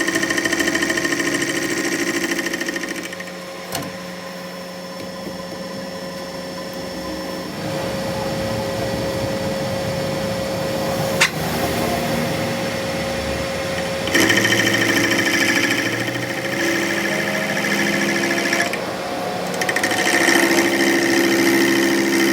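A workshop machine's motor running steadily, its hum shifting in level and pitch in stretches, with one sharp click about eleven seconds in.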